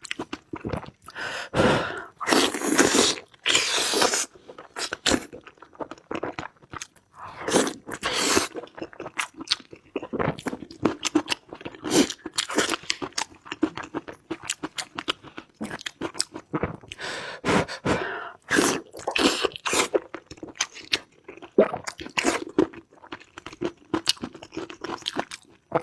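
Close-miked eating: irregular crunching and chewing sounds with wet clicks and smacks, a steady run of bites and mouthfuls.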